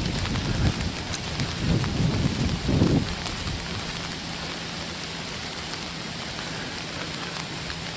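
Rain falling, with many small drop ticks over a steady hiss. Gusts of wind rumble on the microphone for the first three seconds, then the sound settles.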